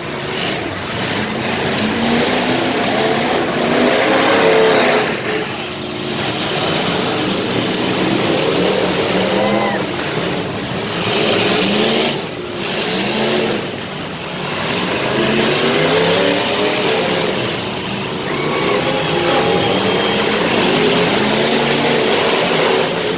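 Full-size demolition derby cars' engines revving again and again, their pitch rising and falling as the cars push and ram one another, over a dense, steady din.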